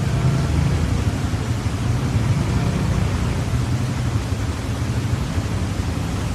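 A vehicle engine running steadily under a loud, even rush of wind-like noise.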